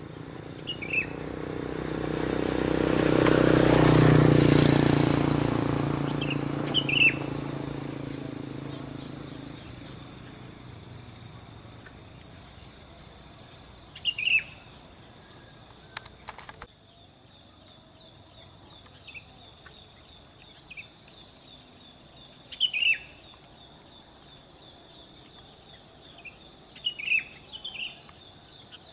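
Insects trilling steadily at a high pitch, with short bursts of bird chirping from a sooty-headed bulbul (kutilang) about six times. Early on a motor vehicle passes, its engine swelling to the loudest sound about four seconds in and fading away over the next several seconds.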